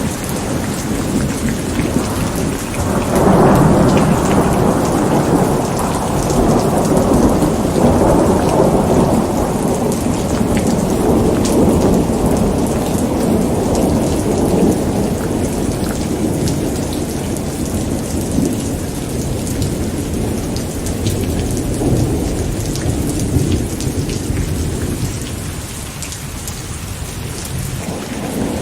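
Steady rain with a long roll of thunder: the rumble swells about three seconds in, rolls on for a while, and dies away near the end before building again.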